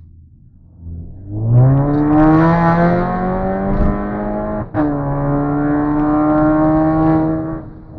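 Volkswagen Jetta 2.0 TSI's turbocharged four-cylinder engine under hard acceleration, its note rising steeply, loud. About halfway through, the revs break with a sharp crack at an upshift. The note then climbs again in the next gear and falls away as the throttle is lifted near the end.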